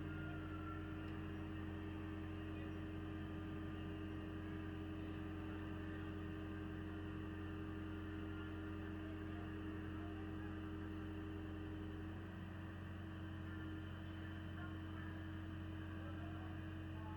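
Excavator's diesel engine running steadily, a low even hum; its tone shifts slightly about twelve seconds in.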